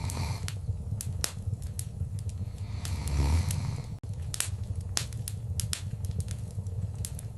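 Wood fire crackling in a fireplace: irregular sharp pops and snaps over a steady low rumble of flame, with a louder surge of flame noise about three seconds in.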